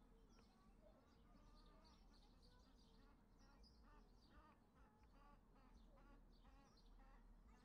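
Near silence with faint bird chirps, short arched calls repeating quickly through the middle stretch.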